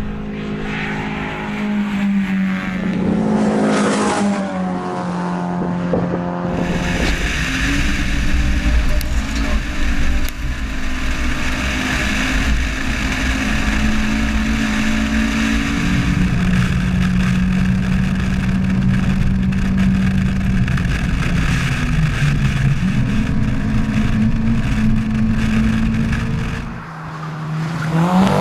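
Toyota Celica RA23 hill-climb car's engine pulling hard at high revs with a heavy, steady roar. The engine note falls and climbs again several times, and dips briefly near the end before revving up again.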